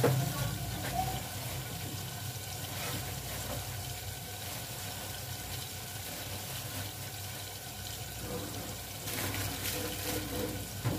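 Onion, tomato and spice masala with meat sizzling steadily in a pot on a gas stove as it fries down, with a few light clatters near the end.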